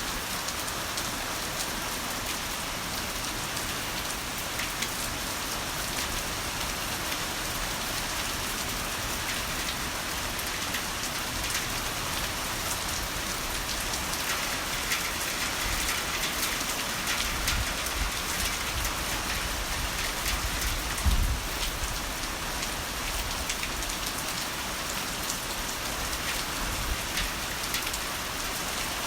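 Heavy rain falling steadily, a dense hiss speckled with individual drop taps. About two-thirds of the way through, a low rumble of thunder builds and peaks briefly before fading back under the rain.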